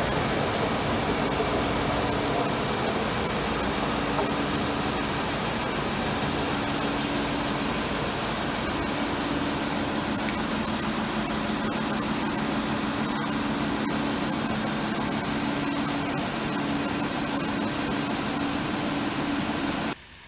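Regional passenger train running past the platform: a steady rumble and rush, with a low engine hum that swells and fades several times. The sound cuts off abruptly near the end.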